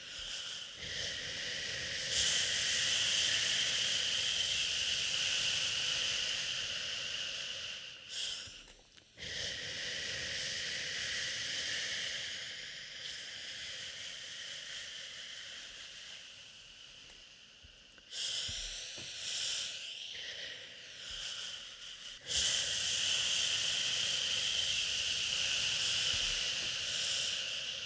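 A person shushing a baby with long, drawn-out "shhh" sounds, each lasting several seconds, with short breaks between them. One shush fades out before the next starts.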